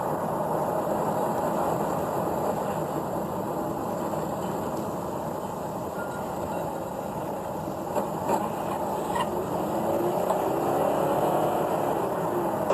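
Steady road and engine noise of a moving car, with a few faint clicks about two-thirds of the way in.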